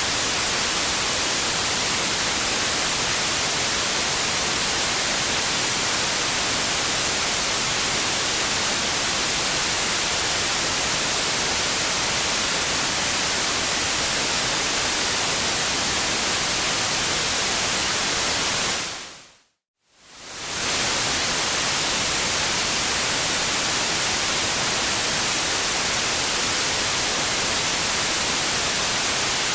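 Steady white noise, an even hiss strongest in the high end. About two-thirds of the way through it fades out to silence and swells back in over about two seconds.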